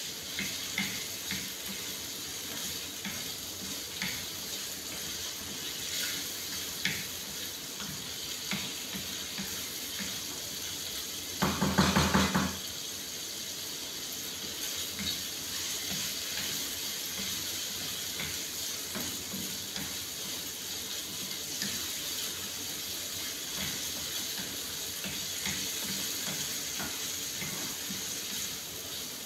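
Diced chicken breast frying in a pan, a steady sizzle with scattered light spatula scrapes and taps against the pan. About twelve seconds in comes a loud second-long burst of rapid scraping and knocking.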